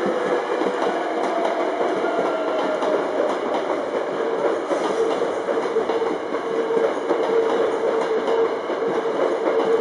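Hankyu electric train pulling slowly into the platform, its wheels rumbling on the rails. A steady whine runs under the rumble; it dips slightly in pitch over the first couple of seconds, then holds.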